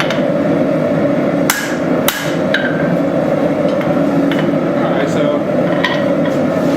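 Forging hammer striking the small hatchet head on the anvil: a handful of ringing blows at uneven intervals, the first few loudest. A steady rushing noise runs underneath.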